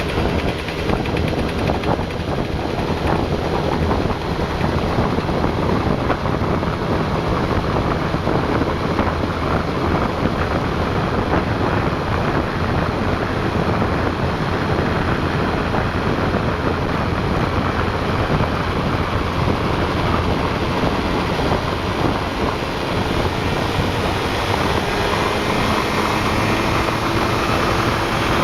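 Yamaha Grand Axis scooter's two-stroke single-cylinder engine running steadily, with wind noise on the microphone. This is the engine the owner says gives a knocking sound when the throttle is eased to part-open from about 4500 rpm.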